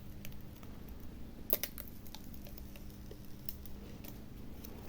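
Small clicks and taps of a replacement tablet touch panel and parts being handled on a workbench, with one sharper click about a second and a half in, over a faint steady hum.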